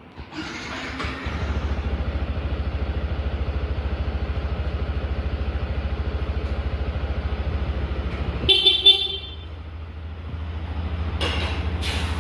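Yamaha WR155R's single-cylinder engine starts and settles into a steady idle. About eight seconds in, the horn sounds briefly, and the engine note then carries on more quietly.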